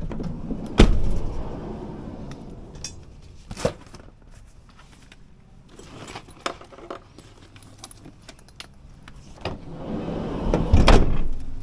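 Scattered clicks, knocks and light rattling, with a sharp knock about a second in, a run of small clicks midway, and a louder burst of handling noise near the end.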